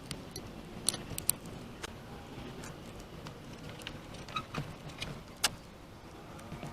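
Caulking gun in use, giving scattered light metallic clicks and rattles at irregular intervals with faint handling noise in between.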